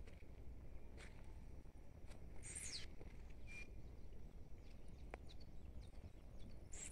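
Faint birdsong: a few short, high whistles that fall in pitch and a brief chirp, over a low outdoor background rumble.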